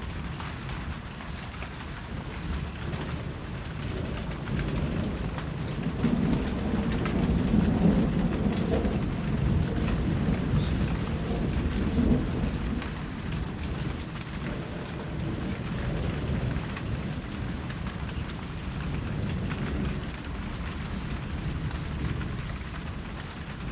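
Steady rain falling, with a low rumble of thunder that swells about a quarter of the way in and fades away past the middle.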